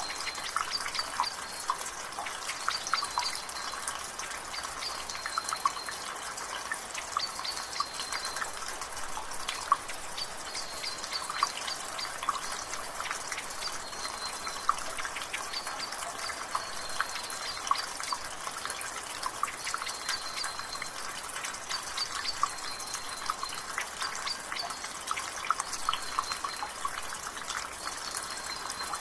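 Water dripping and splattering irregularly from a rain gutter over a steady wash of rain. A bird repeats a short high call every couple of seconds.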